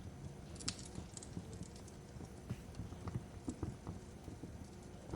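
Wood fire crackling in a fireplace: irregular snaps and pops over a low steady rumble, with a sharper pop near the start.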